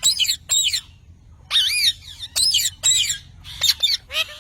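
Parrot squawking repeatedly: about half a dozen short, harsh calls with a wavering pitch, coming in quick bursts with short gaps between.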